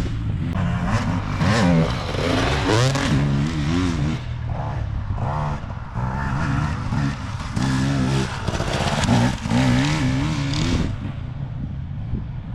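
Enduro dirt bike engine revving, its pitch rising and falling over and over with the throttle, dropping off and getting quieter near the end.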